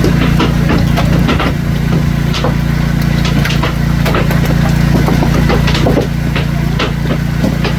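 Hailstones striking hard surfaces, a rapid irregular patter of sharp knocks, over a steady low engine-like hum.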